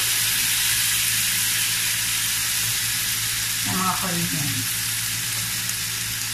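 Kimchi and onions frying in bacon fat in a nonstick pan, with a steady sizzle while they are stirred.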